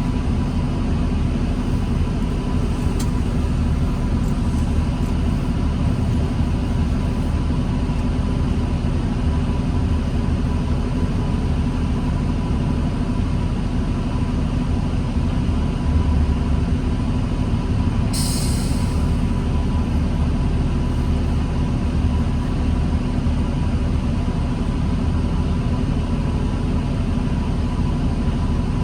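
Diesel transit bus of the New Flyer D40LFR type running at a steady low rumble, heard from inside, with a thin steady whine over it. About two-thirds through comes a brief burst of air hiss from the bus's air system.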